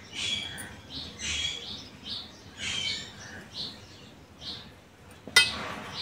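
A small bird chirping repeatedly in short high calls, about one or two a second. Near the end comes a single sharp clatter.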